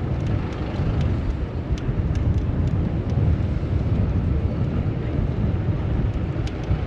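Steady low rumble of city traffic and wind buffeting the microphone on a moving bicycle, with a few faint ticks.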